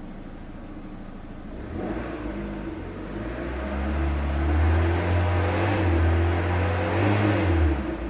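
Peugeot car engine idling in neutral, then given a light blip of throttle about two seconds in. The revs are held up for several seconds and drop back to idle abruptly near the end.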